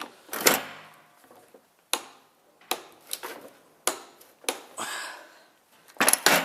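A hammer striking metal on a gearbox about ten times at an irregular pace, each blow sharp with a short metallic ring, while the input shaft gear is being locked in place.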